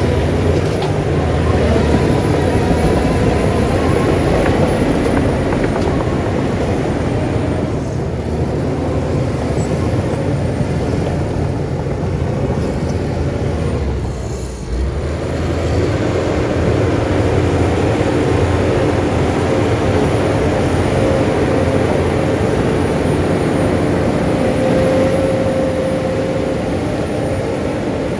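Heavy earthmoving machinery's diesel engine running steadily under load. The sound dips briefly about halfway through, then comes back with a steady whine.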